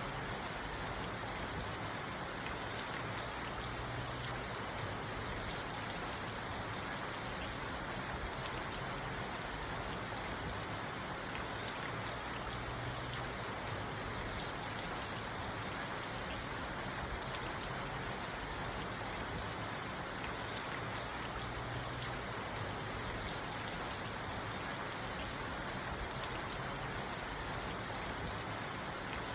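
Steady rain falling on a car's roof and windows, heard from inside the car: an even, unbroken patter with no thunder.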